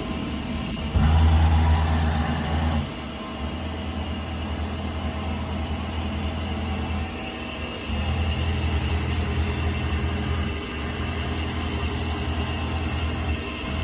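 Mazak QTN300II CNC lathe's X axis running, a steady low drone with mechanical tones that grows louder in two stretches, about a second in and again near eight seconds. It is the abnormal noise from the X axis that was traced to worn X-axis bearings, with the motor-side bearing in the worst condition.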